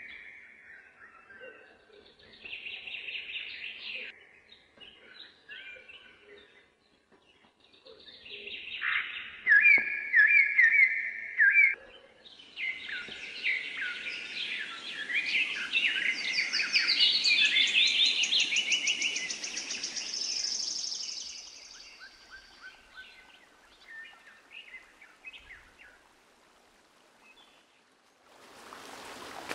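Wild birds chirping and singing. Scattered calls at first, then a busy chorus of overlapping chirps and fast trills about halfway through, then thinning to a few calls near the end.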